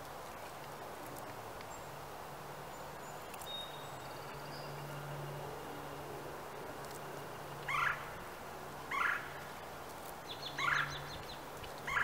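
Bird calls: four short, loud calls spaced one to two seconds apart in the second half, the third preceded by a quick high chatter, over a faint steady low hum.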